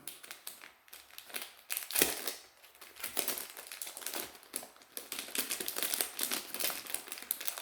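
Small plastic packaging bag crinkling and crackling in irregular bursts as it is handled and opened, with a sharper crackle about two seconds in.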